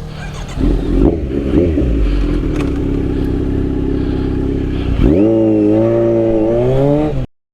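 Motorcycle engine running and pulling away, its pitch climbing and wavering about five seconds in as it revs up through the gears. The sound cuts off abruptly near the end.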